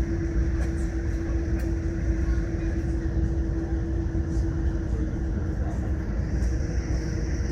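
Boeing 787 Dreamliner cabin noise on the ground during taxi: a steady low rumble with a steady mid-pitched hum, and a few faint clicks.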